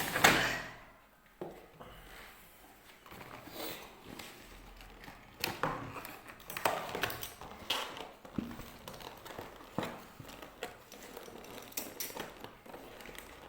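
Takeaway food packaging and containers handled on a table: a loud knock right at the start, then scattered knocks and rustling every second or two.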